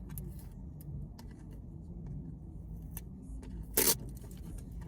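Small clicks and crinkles of a toy's plastic packaging being handled and opened, with one short loud rasp about four seconds in, like tape or plastic being pulled.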